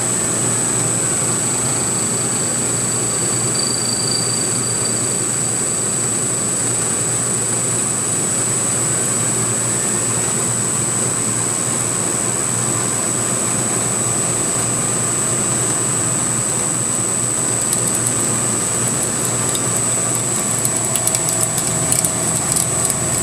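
CNC milling machine with a belt-drive spindle cutting metal: a steady machining noise with a constant high whine. Near the end a patter of sharp ticks joins in.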